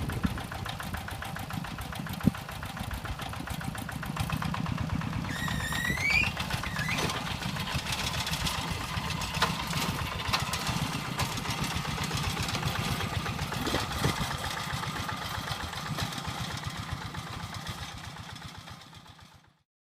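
Hand tractor engine running steadily with a fast, even beat, with a brief rising squeal about six seconds in. The sound fades out near the end.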